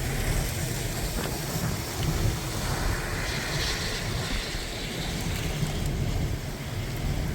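Steady noise of heavy storm rain and wind, with a low rumble buffeting the microphone.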